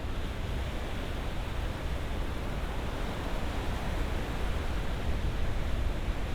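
Ocean surf: a steady, even rush of waves with a deep rumble underneath and no separate wave breaks standing out.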